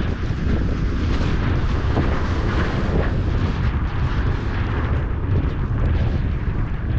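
Strong wind buffeting the microphone: a loud, steady, low rumbling roar with gusty fluctuations.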